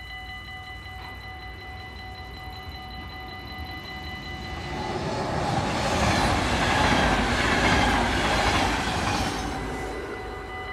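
Yellow NS double-deck electric passenger train passing over a level crossing. Its rush of wheel and rail noise builds from about four seconds in, is loudest for a few seconds, then fades. The crossing's warning bells ring steadily throughout.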